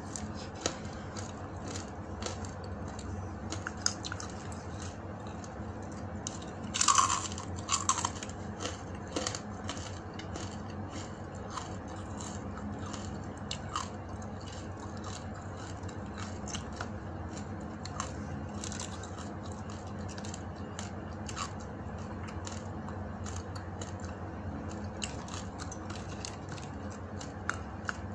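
Close-up chewing and crunching of crisp dried salted fish, with many small crackling bites and a louder crunch about seven seconds in.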